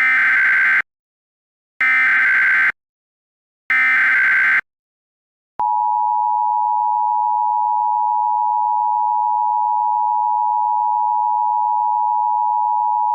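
Emergency Alert System alert opening: three SAME digital header data bursts, each just under a second long with about a second between them. About five and a half seconds in, the steady EAS two-tone attention signal (853 and 960 Hz together) begins.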